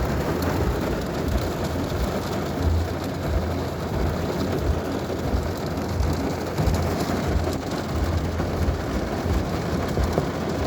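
Heavy rain falling steadily, with wind buffeting the microphone in uneven low rumbles.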